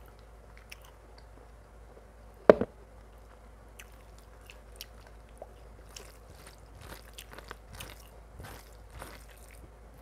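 Close-miked chewing and mouth sounds of someone eating mutton curry and rice, with one loud, sharp crunch about two and a half seconds in. The chewing grows busier from about halfway through.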